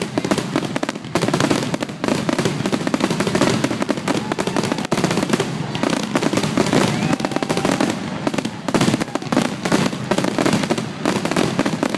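Fireworks finale barrage: aerial shell bursts going off bang after bang in a dense, rapid run with no gaps between them.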